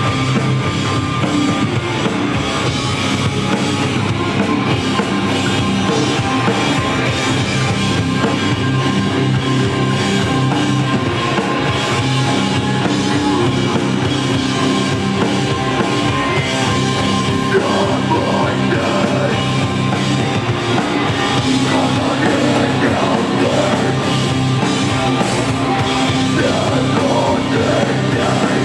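A rock band playing live, with a drum kit driving a steady, loud, unbroken passage.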